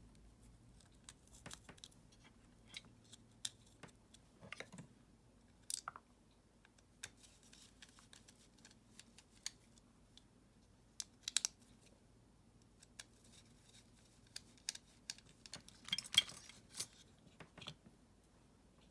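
Sporadic small clicks and taps of hand work on a Makita screwdriver battery pack: parts and tools being handled, with a few quicker runs of clicks about eleven seconds in and again around sixteen seconds.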